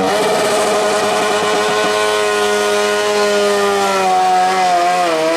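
Modified lawn tractor's engine running hard at high revs under load during a pull, its pitch holding steady and then wavering and sagging near the end.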